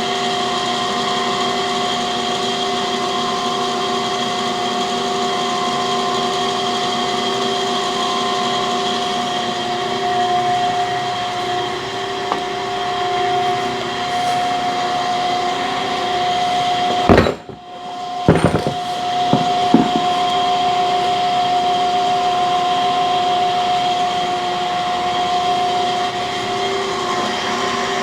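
Cam grinding machine running steadily, a constant hum with a steady whine. It cuts out suddenly for about a second midway, then comes back with a few knocks and clunks.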